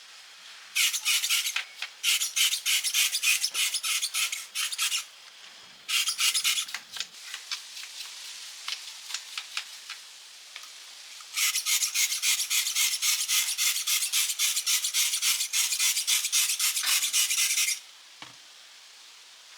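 Quick, even rasping hand strokes of an abrasive tool, such as a file or wire brush, on metal, several strokes a second. They come in three bouts: one near the start, a shorter one that fades out, and a long one that stops sharply near the end.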